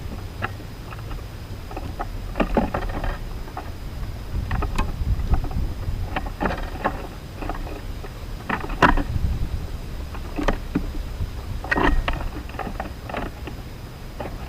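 Wind rumbling on an outdoor microphone, with a dozen or so short, sharp sounds scattered through it, clustered about 2.5, 6.5, 9 and 12 seconds in.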